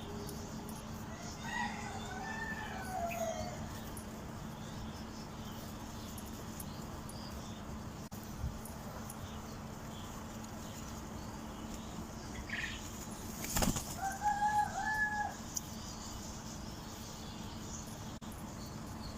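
Domestic pigeons flapping their wings, with two short bird calls, one about two seconds in and a two-note call near the end, over a steady low hum.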